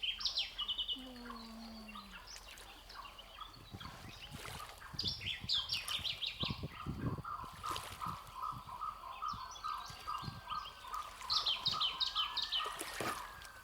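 Birds calling outdoors: quick runs of high chirps a few times, with a steady series of short notes, about three a second, through the second half.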